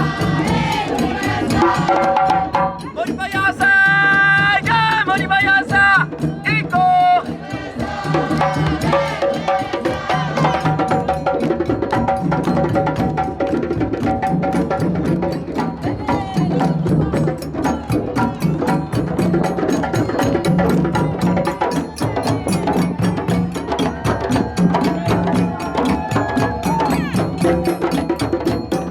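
A parade drum ensemble playing a fast West African rhythm with many drum strokes and a clacking percussion part. A group sings along over the drums for the first several seconds.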